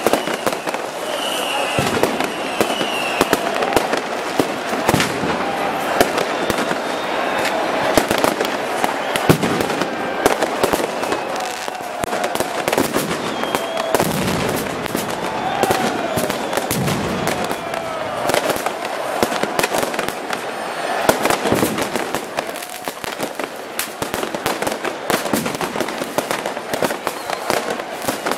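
Fireworks and firecrackers going off continuously all around: a dense, unbroken crackle of bangs and pops, with a few short whistles in the first few seconds.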